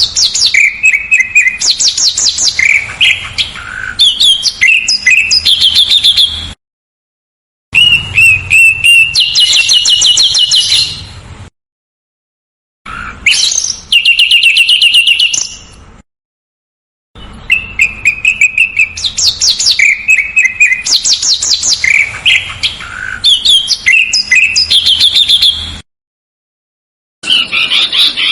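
Small songbird song from a masteran tutor recording: rapid, tightly packed trills and chirps in loud phrases of a few seconds, each cut off abruptly by about a second of silence, four times over. The phrase heard at the start comes around again in the second half, as a looped recording.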